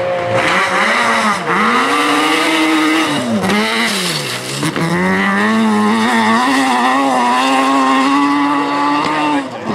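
Group B rally car engine at full throttle, its pitch climbing and dropping sharply three times with gear changes and lifts, then holding high and fairly steady for about the last four seconds.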